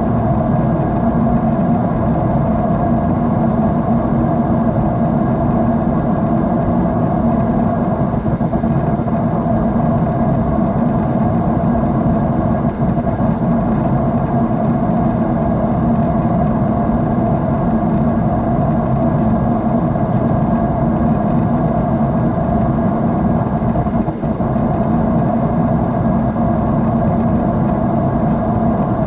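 Jet airliner engine noise heard inside the cabin at a window seat: a steady, unbroken whooshing drone of engines and airflow.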